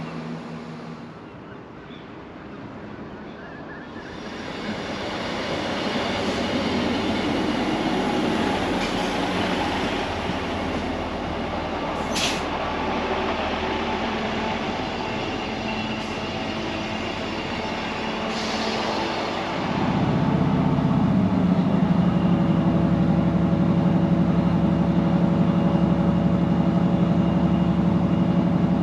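A passenger train's rumble builds over a few seconds and runs on, with a brief high squeal about twelve seconds in. About twenty seconds in, a steady low engine drone comes in louder.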